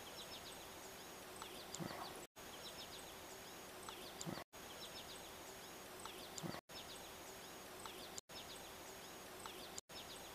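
Faint open-air ambience with small birds chirping. The same couple of seconds of sound repeats about five times, each repeat cut off by a brief dropout, and a thin steady high tone runs through part of each repeat.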